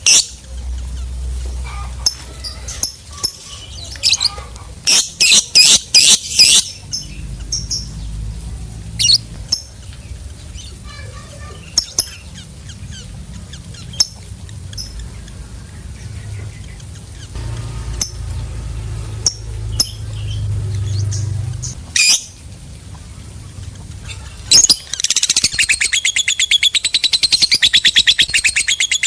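Lovebird calling: scattered sharp chirps, a quick run of loud chirps about five seconds in, then near the end a long, fast, rattling chatter, the 'ngekek' call, over a low rumble.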